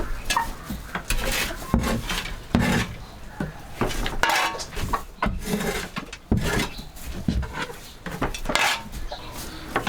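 Dishes and kitchen utensils clinking and clattering, with irregular knocks and scrapes of crockery and metal being handled.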